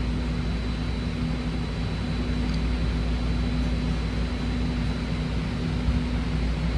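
Steady hum inside a BART train car standing at the platform, its ventilation and electrical equipment running, with a few low droning tones and a faint thin high whine.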